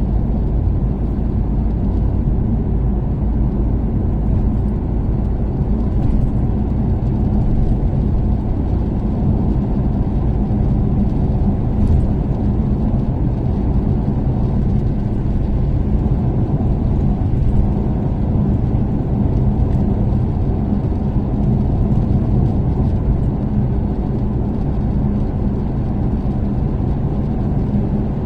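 Toyota Caldina ST246W's turbocharged 3S-GTE inline-four, breathing through an aftermarket ATR Sports2 exhaust, running at a steady expressway cruise together with road noise: a low, even drone that holds steady throughout.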